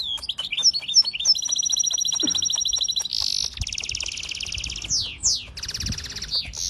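A songbird singing a fast, varied song: long rapid trills, buzzy rattles a few seconds in, quick whistled down-slurs and a string of sharp clicks.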